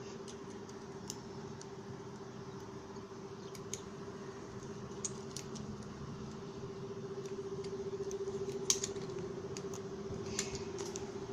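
Scattered light clicks, irregular and a few seconds apart, with two louder ones near the end, over a steady low hum.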